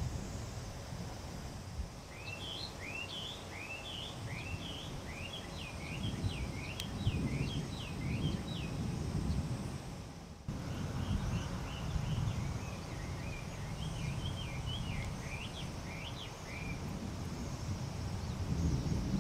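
Distant thunder rumbling low, swelling and fading, while a small songbird sings two runs of quick chirping notes.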